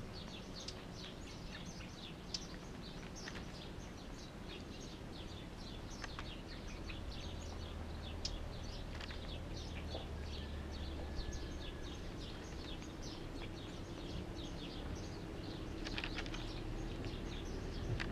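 Small birds chirping in quick, short, high notes, several a second, over a steady low background rumble.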